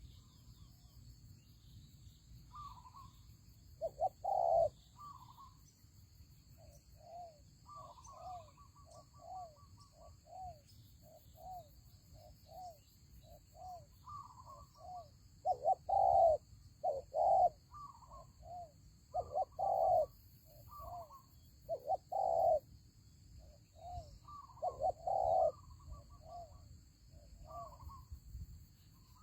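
Spotted doves cooing over and over, in short repeated phrases through the whole stretch, some coos much louder than others.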